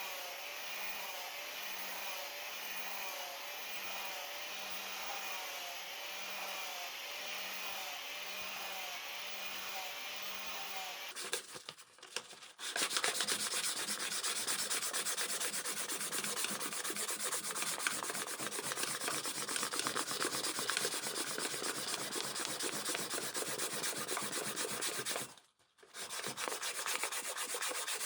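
Abrasive work on the rusted anvil's metal. First comes a steady run with a wavering whine and a slow regular pulse, then, after a short pause, a louder continuous scraping like sanding that breaks off briefly near the end.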